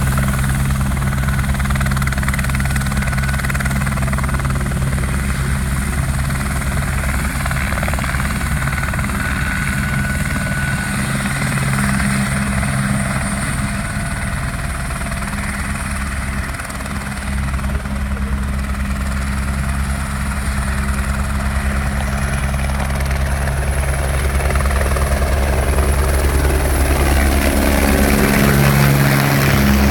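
Sheriff's helicopter running steadily, its rotor and turbine giving a continuous loud drone; the pitch drops near the end.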